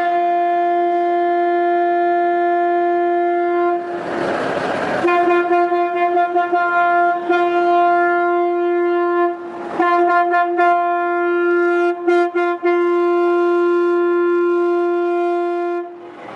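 A vehicle horn blaring in one long, unbroken blast. A burst of rushing noise breaks over it about four seconds in and again briefly near ten seconds.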